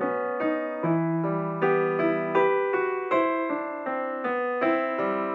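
Background piano music: a steady run of single struck notes, a little over two a second, each ringing and fading under the next.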